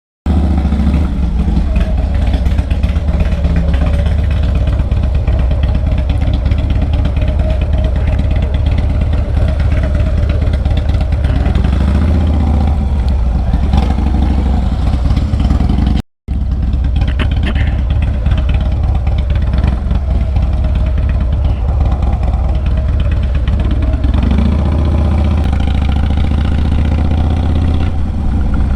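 Harley-Davidson Low Rider S's 110-cubic-inch V-twin running through a Sawicki Speed 2-into-1 exhaust while riding, loud and steady, with the engine pitch rising and falling a couple of times. The sound cuts out for a split second about halfway.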